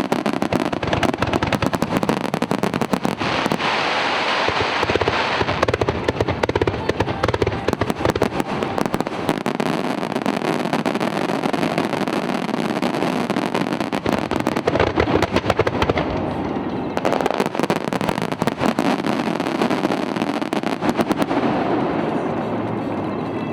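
Aerial fireworks going off in a rapid, continuous barrage of bangs and crackling, dying away near the end.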